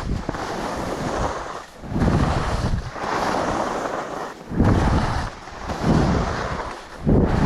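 Wind buffeting the microphone over skis scraping across snow, the noise swelling and fading in surges about once a second as the skier turns.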